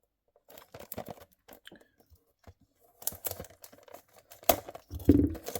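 Small cardboard box and plastic packaging being opened by hand: scattered light clicks and taps, then louder rustling and tearing from about halfway, with a dull thump near the end.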